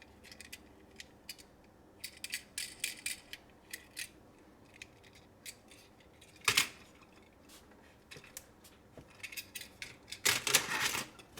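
Clicks and light clattering of small toy cars being handled: scattered taps about two to three seconds in, one sharper knock about six and a half seconds in, and a quick flurry of clicks near the end.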